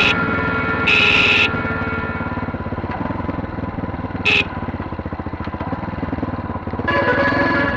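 Chinese 250 cc dirt bike engine running steadily at an even, low speed, with no revving. Two brief high tones cut in, about a second in and about four seconds in.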